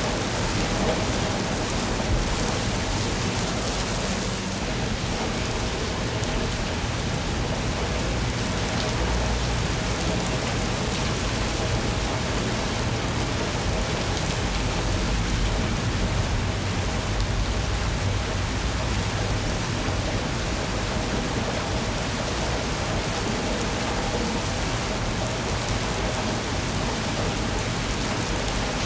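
Steady rain falling, an even hiss with a low rumble underneath that swells now and then.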